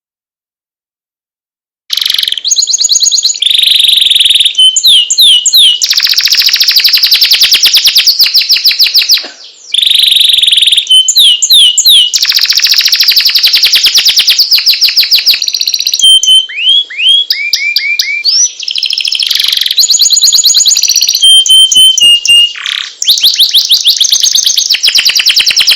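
Male domestic canary singing a long, loud song of rapid trills, repeated whistled phrases and fast rolls, starting suddenly about two seconds in after silence.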